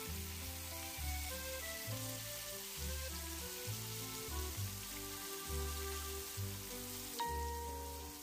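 Battered squid frying in hot oil in a wok, a steady sizzle, under background music with a bass line that changes note about every second.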